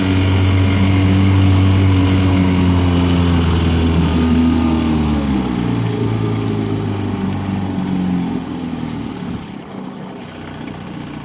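1958 Johnson CD-15 5.5 hp outboard, a two-cylinder two-stroke, running under way in forward gear. It holds a steady speed, then is throttled back about five seconds in, its pitch dropping and the sound growing quieter toward the end.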